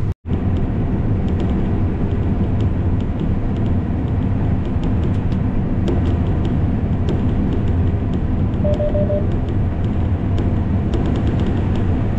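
Combine harvester running steadily while cutting soybeans: a constant engine and machinery drone with light ticking throughout. A short run of quick beeps comes about nine seconds in.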